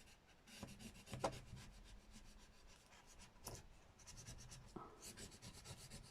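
Faint scratchy rubbing in short repeated strokes as a rub-on transfer is burnished onto a paper journal page.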